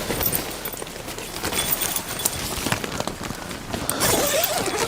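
Tent door zipper being opened, with rustling of the tent fabric and scuffling movement.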